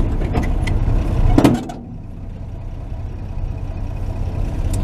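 1949 Chevy truck's engine idling with a steady low hum. Clicks and a thump come about a second and a half in, after which the sound turns quieter and duller.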